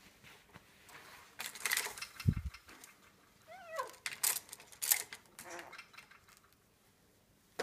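Cape parrot giving several harsh, raspy screeches with a short falling squeak in between, and a brief low thump about two seconds in.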